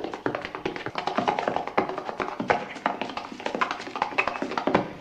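Rapid, irregular tapping and clicking, several sharp strikes a second, layered in an experimental noise collage with a few faint held tones.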